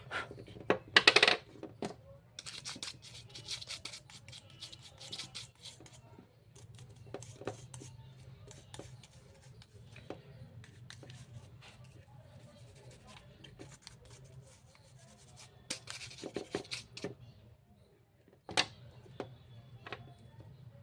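Hand work on a speaker under repair: irregular scraping, rubbing and clicking of tools and small parts, busiest in the first few seconds and again near the end, over a faint steady low hum.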